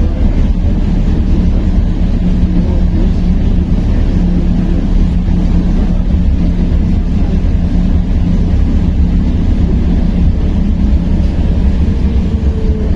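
Interior of a Belkommunmash AKSM-60102 low-floor tram in motion: a loud, steady low rumble of wheels and running gear with an electric hum underneath. Near the end a whine falls slowly in pitch.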